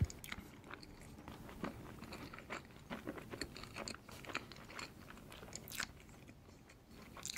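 Close-miked mouth sounds of a man eating layered crêpe cake with cream: soft, irregular wet chewing and smacking clicks, several a second.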